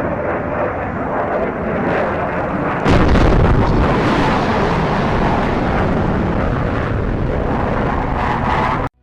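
Unexplained loud rumble from the sky, a continuous deep rumbling noise that swells sharply about three seconds in and holds, then cuts off abruptly just before the end. It resembles a sonic boom or a passing fighter jet, though no aircraft or explosion was found to account for it.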